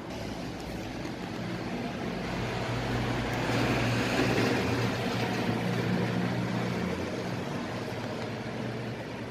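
A motor vehicle passing by: its engine hum and road noise grow louder to a peak about four seconds in, then fade away.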